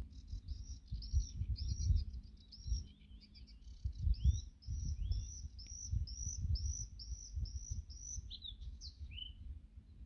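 Songbird singing a long run of repeated high, arching notes, about two a second, ending with a few lower falling notes, over a low irregular rumble.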